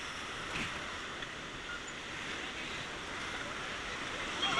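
Rushing white water of a fast mountain river, a steady hiss heard from a raft. Near the end there is a brief high-pitched sound.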